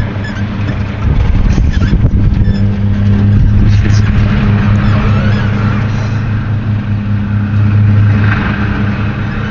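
A small airplane's engine droning steadily, heard from inside the cabin, with a strong low hum.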